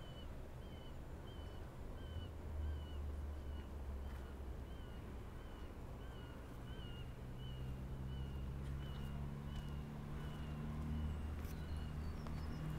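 A bird repeating a short chirp about two or three times a second, fading out about nine seconds in, over a faint low steady hum.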